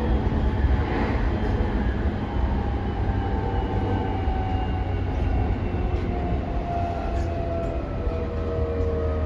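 Running sound of a JR E217-series electric train heard inside the passenger car: a steady low rumble of wheels and running gear with the traction motors whining. From about five seconds in, several whine tones slowly fall in pitch as the train slows.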